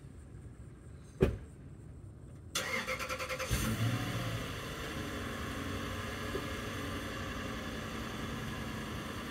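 A car door shuts with a single thump about a second in, then the Toyota Land Cruiser's 4.7-litre V8 is cranked by the starter for about a second, catches with a brief rise in revs and settles into a steady fast idle: a cold start after sitting for a weekend.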